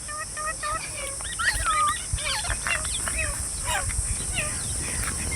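Green parrots calling: a quick run of evenly spaced short chirps, then scattered squawks that slide up and down in pitch, over a steady high hiss.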